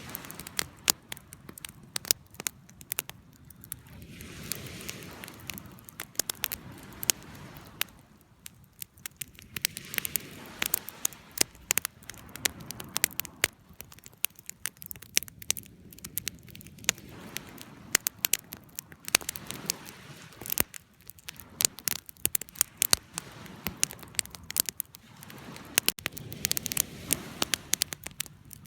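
Wood fire crackling: frequent sharp pops and snaps over a soft rushing of the flames that swells and fades every few seconds.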